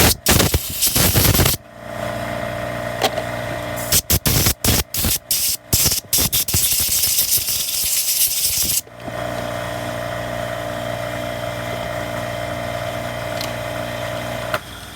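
Loud, short hissing blasts in quick succession: a cluster at the start, another about four seconds in that ends in a longer hiss of about two seconds, all over a steady machine hum.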